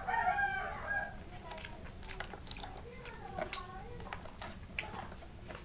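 Close-up eating sounds: a bite from a skewered rolled egg, then chewing with many short wet mouth clicks and lip smacks. A brief hummed, voice-like sound comes in the first second.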